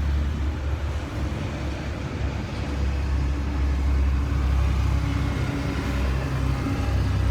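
Steady low rumble of a running vehicle, engine and road noise, with faint steady hum tones above it.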